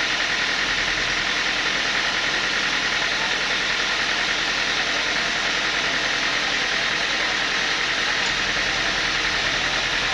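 Sawmill machinery running with a steady, even noise that does not change in level.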